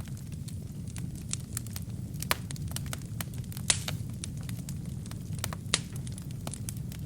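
Wood fire burning in a fireplace: a steady low rush of flame under frequent sharp crackles, with three louder pops from the burning logs.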